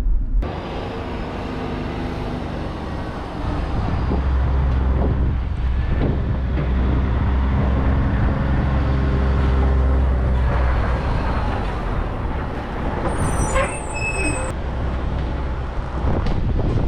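Vehicle engine running steadily, growing louder about three and a half seconds in, with a few short high squeaks around thirteen seconds in.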